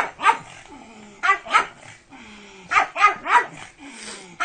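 Pug barking in short, sharp bursts: a single bark, then two, then three quick barks about half a second apart.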